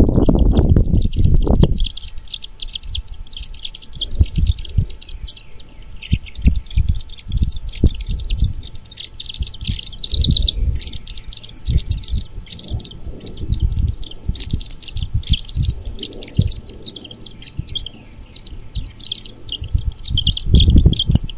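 Birds chirping rapidly and continuously in short, high-pitched notes. A loud low rumble fills the first two seconds, and low thumps recur now and then after it.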